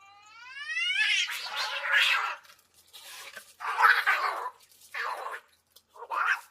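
An angry kitten gives a rising yowl, then hisses four times in short, breathy bursts with pauses between them.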